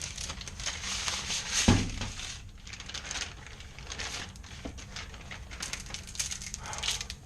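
Crinkling and rustling from handling a flexible dryer vent hose, with scattered small clicks and one thump about two seconds in.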